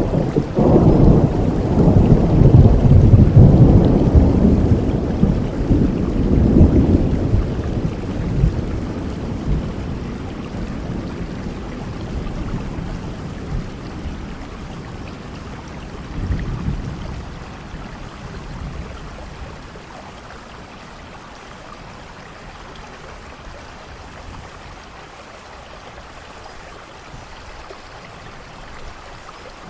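Thunderstorm: a long, loud roll of thunder rumbles and fades over the first several seconds, a smaller rumble follows about halfway through, and steady rain hisses throughout.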